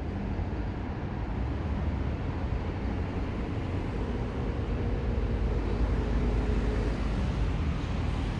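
Steady rumble of road traffic, with a faint engine hum partway through.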